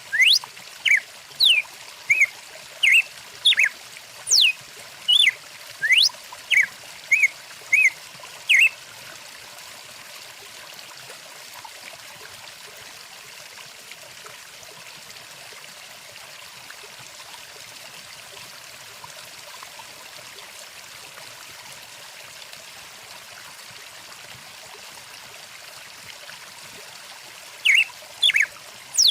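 Stream water running steadily, with birds calling over it in quick, sharp chirps and sweeping whistles for the first eight or nine seconds. The birds fall silent, leaving only the water, then start calling again near the end.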